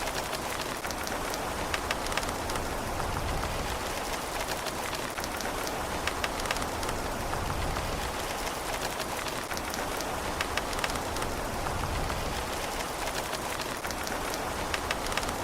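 Steady rain falling on a surface, an even hiss with many sharp individual drop taps throughout, and no thunder.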